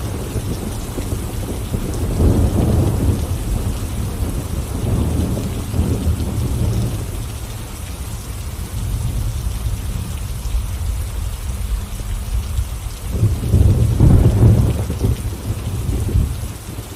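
Steady rain with rolling thunder rumbling low underneath, swelling about two seconds in and loudest near the end.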